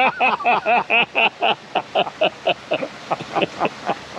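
A man laughing hard, a long run of 'ha-ha' bursts that slows down and fades away near the end.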